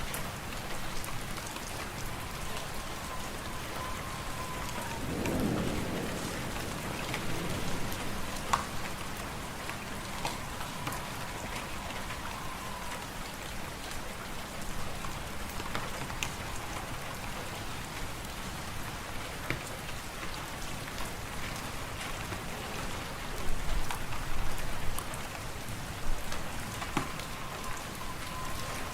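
Wood fire crackling in a fireplace: a steady hiss dotted with sharp pops and snaps, with a few louder pops clustered late on. A faint whistling tone comes and goes three times, dipping in pitch as it fades, and a low rumble swells briefly about five seconds in.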